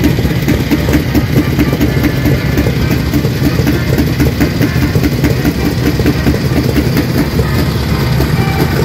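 Several vintage motorcycle engines idling together, a steady, rapid pulsing exhaust beat.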